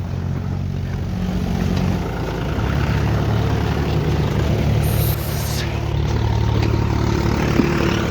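Tractor's diesel engine running steadily under load, its speed shifting about two to three seconds in, with a brief hiss about five seconds in.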